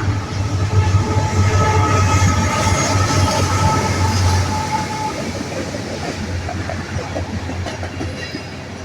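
Norfolk Southern freight train of tank cars passing, its wheels clattering over the rails. The train is loudest in the first half, with a low steady hum and a couple of steady tones, then eases to a softer rolling sound with scattered clicks.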